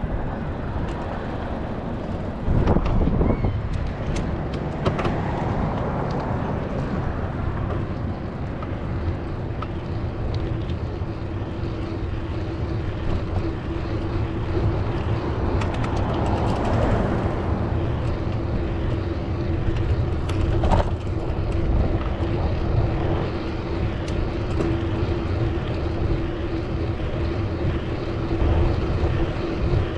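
Road traffic: motor vehicles passing one after another over steady road noise and low rumble, with louder swells as vehicles go by. A steady hum joins partway through.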